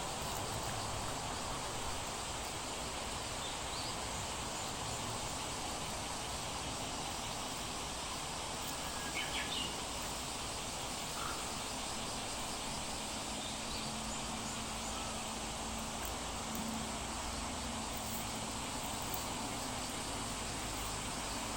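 Steady outdoor riverside hiss with a few faint, short bird chirps. A faint low hum comes in for a few seconds past the middle.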